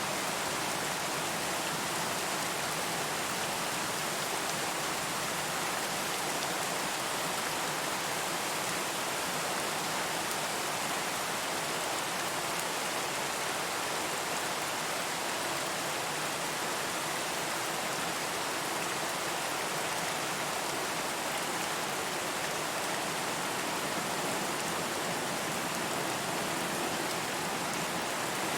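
Steady rain falling, an even continuous hiss of many drops with no distinct single impacts.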